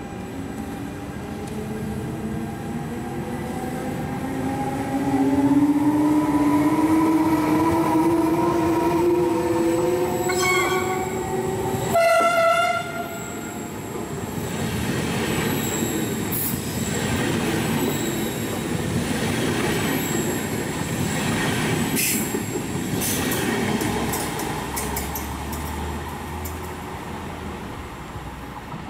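Trenitalia E.464 electric locomotive and Vivalto double-deck coaches passing close: a rising electric whine from the locomotive as it comes on, a short two-note horn about ten seconds in, then the coaches rolling past with wheel rumble, squeal and sharp clicks over the rail joints.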